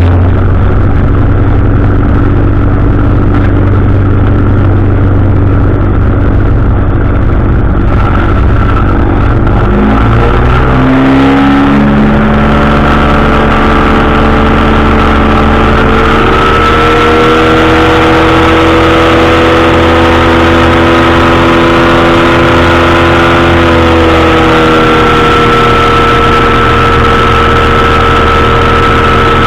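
Powered parachute's engine and propeller running loudly, throttled up about a third of the way in with a steep rise in pitch, then holding at higher revs with a slight easing near the end.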